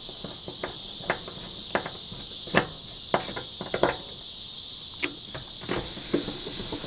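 Steady high insect buzz, with irregular sharp clicks and knocks, about a dozen, from parts being handled and pressed into place on a pickup truck door during weatherstrip fitting.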